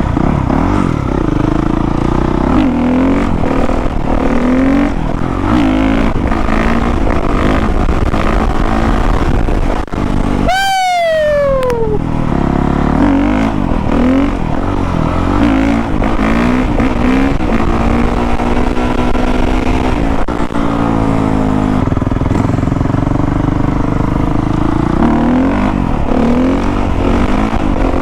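A 450 cc four-stroke motocross bike engine runs hard while being ridden, its pitch rising and falling with the throttle. About ten seconds in, a high engine note sweeps sharply downward.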